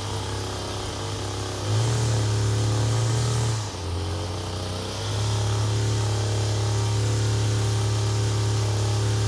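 Small two-stroke engine of a handheld power tool running. It picks up speed about two seconds in, drops briefly near four seconds, then holds a steady speed.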